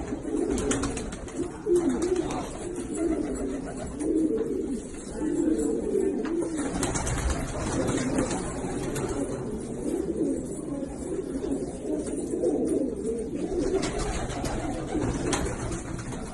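A flock of Pakistani domestic pigeons cooing continuously, many low overlapping coos.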